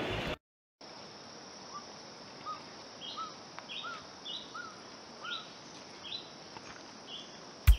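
Birds calling in forest: a series of short rising whistled notes, about one every two-thirds of a second, with higher chirps in between, over a steady background hiss.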